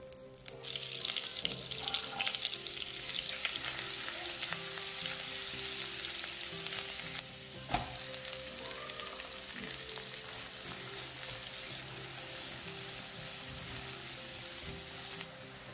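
Butter and oil sizzling in a hot nonstick pan, the sizzle starting about half a second in and then running steadily. A single sharp clack comes about eight seconds in as chopped onion is added, and the frying sizzle carries on while the onion is stirred with a spatula.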